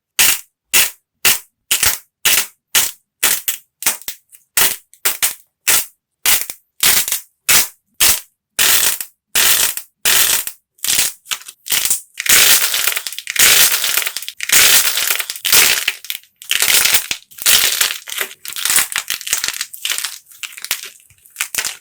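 Clay being cracked and crushed: sharp crackling crunches about twice a second at first, running together into nearly continuous crunching about halfway through, then breaking up into separate cracks again near the end.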